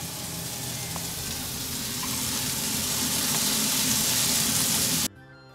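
Shrimp frying in oil in a wok, a steady sizzling hiss that grows gradually louder, cut off abruptly near the end by soft background music.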